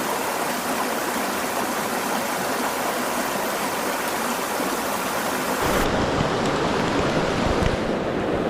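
Mountain stream water rushing steadily over rocks. About six seconds in the sound turns deeper and fuller, with more low rumble.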